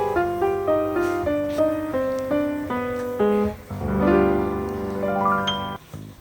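Piano background music: a light melody of quick notes, then a held chord that fades out shortly before the end.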